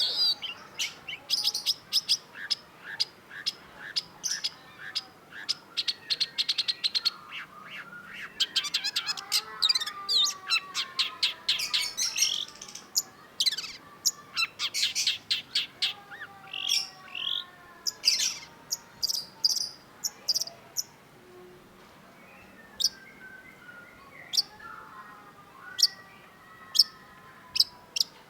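Long-tailed shrike singing: fast runs of sharp, clicking chatter and high squeaky notes, with fainter falling whistles underneath. The song eases off about 21 seconds in, then the sharp notes start up again.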